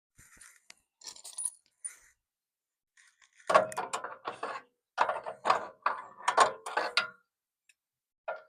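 Metal mounting hardware, bolts, nuts and washers, clinking and jangling together as it is handled. First come a few light jingles, then from about halfway a quick run of louder clinks.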